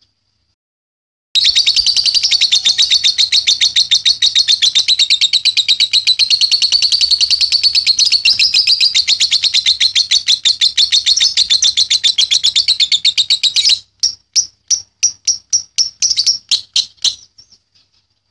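Young lovebird's ngekek: a long, rapid, high chattering trill that starts about a second in and runs for about twelve seconds, then breaks into separate chirps that thin out and stop.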